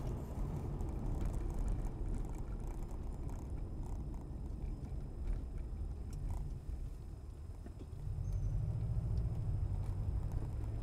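Low, steady rumble of a vehicle's engine and road noise, with a brief knock about five seconds in; the rumble grows louder again near the end.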